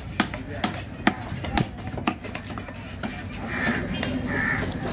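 Heavy knife chopping through fish on a cutting block, about two sharp strikes a second, stopping about halfway through.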